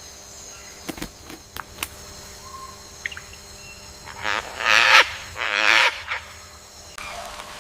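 An animal calling: two loud calls of wavering pitch about four and a half and five and a half seconds in, after a few sharp clicks.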